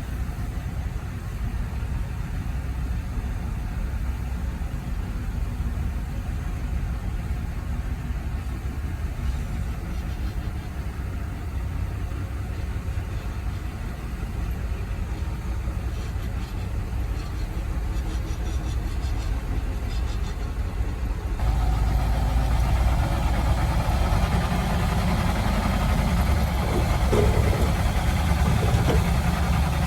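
Heavy earthmoving machine's engine running steadily. About two-thirds of the way through it suddenly gets louder and rougher.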